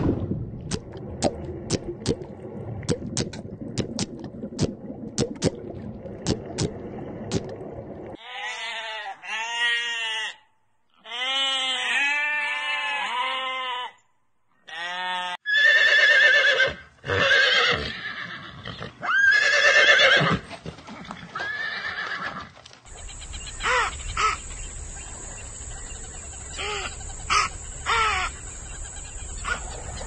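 A string of different animal sounds. First come sharp, irregular clicks over a low rumble, then a quick run of short calls that rise and fall. Around the middle a horse whinnies loudly a few times, and near the end a steady high whine plays under a few short calls.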